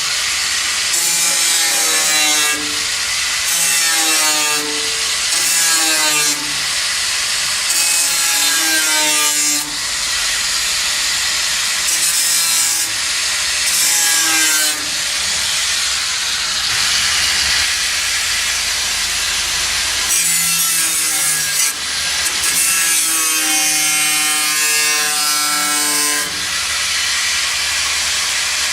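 A saw cutting in repeated back-and-forth strokes, each stroke carrying a gliding ringing pitch, with a steadier stretch of continuous cutting in the middle.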